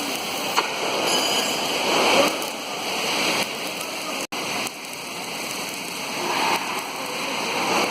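Oxy-acetylene torch flame hissing steadily, with voices in the background. The sound drops out for an instant about four seconds in.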